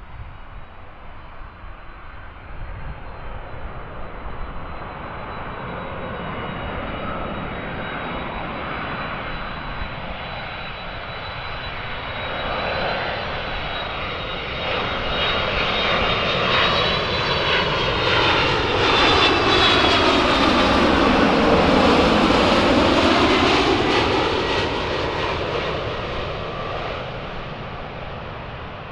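Boeing 767-300ER twin-engine jet coming in to land, its engines growing louder as it approaches with a steady high whine over a rushing rumble. The sound is loudest about three-quarters of the way through as it passes, then fades.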